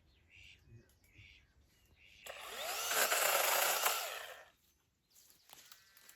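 A small power tool runs in one burst of about two seconds, its motor pitch rising and falling, then stops.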